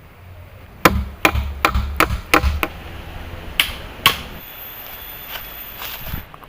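A quick run of about six sharp tool blows on wood, roughly three a second, then two more strikes, as in chopping or hammering at the camp. A thin, very high steady tone follows for about two seconds.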